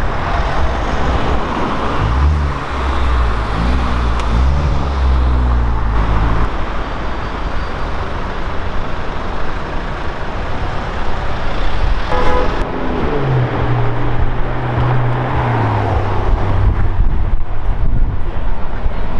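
Car engines running in street traffic, with a deep engine note that rises and falls in the first few seconds and again later. A short car horn toot about twelve seconds in.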